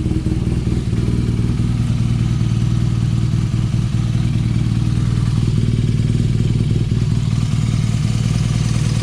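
BMW R nineT's air/oil-cooled boxer twin idling steadily while it warms up.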